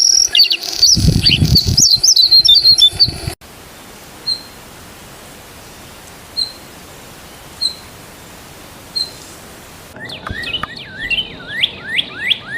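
Birds chirping and calling, with a low rumble under the first few seconds. In the middle there is a steady hiss with one short chirp about every second and a half. Near the end comes a quick series of calls that sweep downward in pitch.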